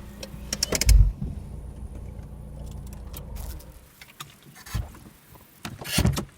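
Car engine running with a low steady hum that cuts off about four seconds in, with sharp clicks and a loud low thump about a second in, then a few more knocks and thumps after the engine stops.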